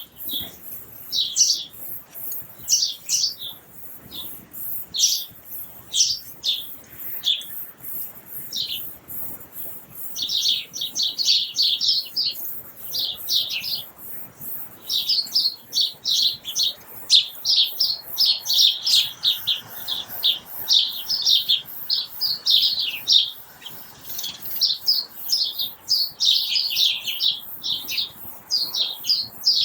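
Small birds chirping: a steady run of short, high chirps and twitters, sparse at first and busier from about ten seconds in.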